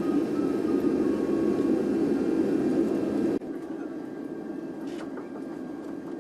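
Steady rumble of jet engines and airflow heard inside a Boeing 747 cabin. It drops sharply in level about three and a half seconds in, then carries on more quietly.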